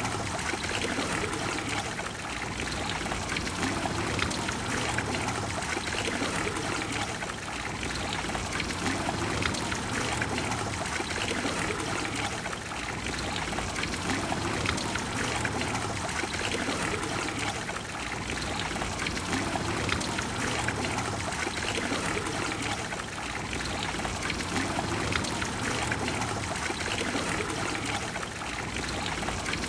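Water of the Trevi Fountain flowing and splashing steadily.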